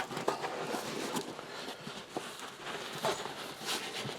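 Carpet being rolled up by hand: rustling and scuffing with a few soft knocks.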